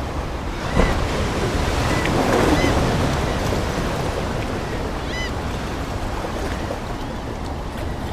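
Ocean waves washing in steadily, swelling a little louder after about two seconds, with three short seagull calls: about a second in, midway through the swell, and near the middle.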